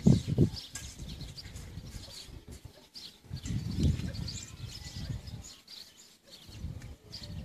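Birds chirping in scattered short calls, with a few low rumbling gusts of wind on the microphone; a cow's moo trails off in the first half second.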